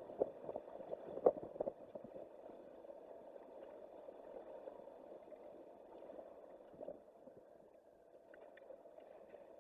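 Strong wind rushing and buffeting against the microphone, with a steady faint hum underneath and a few sharp knocks in the first two seconds and another near seven seconds.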